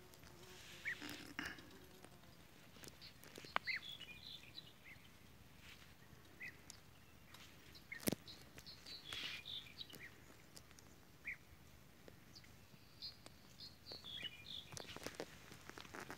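Small birds chirping in short, scattered high calls over a quiet rural background, with a few sharp clicks, the loudest about eight seconds in.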